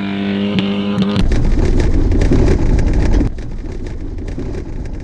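Car engine revving up and held at a steady pitch, then about a second in a loud, rough rushing noise with many small clicks as the car pulls away, easing off after about three seconds.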